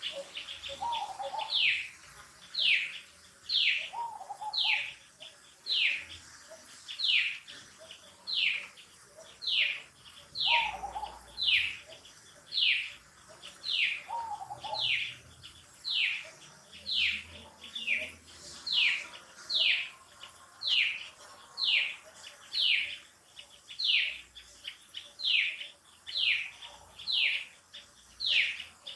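A bird calling a short falling whistled note over and over, evenly, about once a second.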